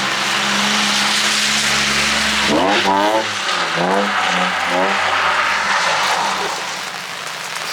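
Car engine holding a steady note, then revving up and down quickly several times from about two and a half seconds in, as a drift car is driven sideways on a wet surface, over a steady hiss of rain and spray.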